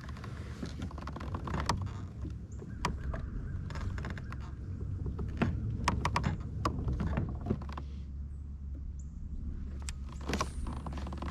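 Irregular knocks and clicks of gear being handled aboard a kayak, over a steady low rumble.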